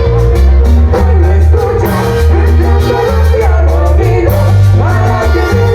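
Loud Latin dance band playing, with a singer's vocal line over a heavy, steady bass and regular cymbal hits.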